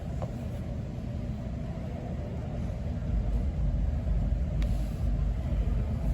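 Steady low rumble of ice-arena background noise during a sled hockey game, growing a little louder about halfway through, with a few faint clicks.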